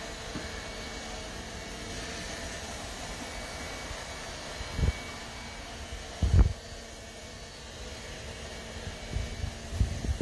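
Steady fan-like whir of a robot vacuum cleaner running. A few dull low thumps break through it, two in the middle and several close together near the end.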